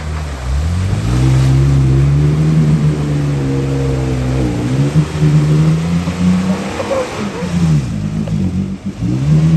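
Two-wheel-drive pickup truck's engine revving hard in a mud hole: it climbs and holds high revs, drops, then climbs again, with two more dips and rises near the end.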